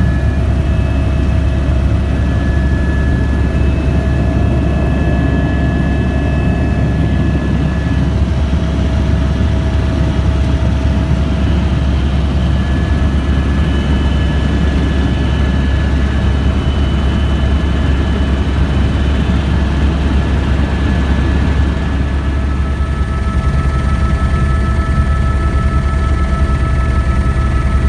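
Helicopter in flight: a steady loud drone of rotor and engine noise with several thin whining tones above it, which change pitch about two-thirds of the way through.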